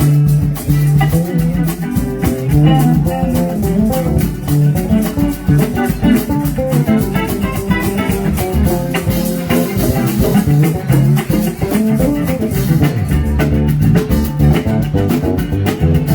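Live band playing an instrumental passage between sung verses: guitar over bass guitar and drum kit with percussion.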